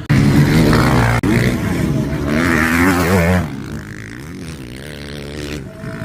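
Motocross motorcycle engines revving, their pitch repeatedly climbing and dropping as the throttle is worked. Loud for the first three and a half seconds, then fainter.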